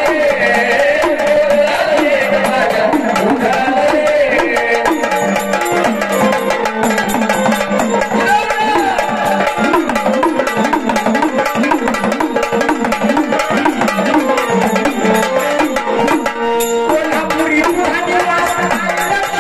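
Gondhal folk music: sambal drums played in a fast, steady rhythm, their pitch bending up and down with each stroke, over sustained melodic accompaniment.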